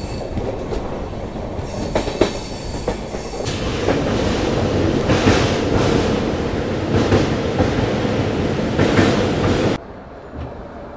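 Express passenger train running along the track, heard from an open coach door: a steady rumble with wheels clacking over rail joints, growing louder about four seconds in. The sound drops suddenly to a much quieter level near the end.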